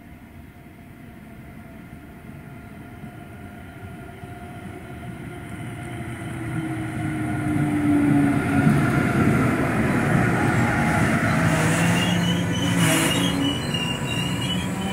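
An Intercity train hauled by an electric locomotive approaches and runs past close by: wheel and motor rumble grows steadily louder, peaking as the locomotive passes, then continues as the coaches roll by. A brief high squeal comes near the end.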